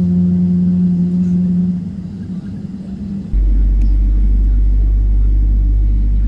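Cabin noise inside a Boeing 777-300ER with its engines running during pushback and taxi. A steady hum with a pronounced tone is heard first. A little over three seconds in, it switches abruptly to a loud, deep, steady rumble.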